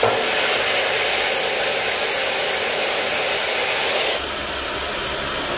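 A loud, steady rushing hiss like air blowing, dropping slightly in level about four seconds in.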